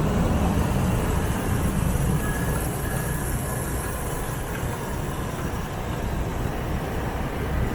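Motorbike riding through city street traffic: steady engine and road noise with a heavy low rumble, easing slightly about halfway through.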